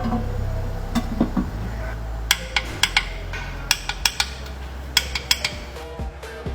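Metal tools clinking and tapping against metal parts, about a dozen sharp, irregular clinks over a steady low hum.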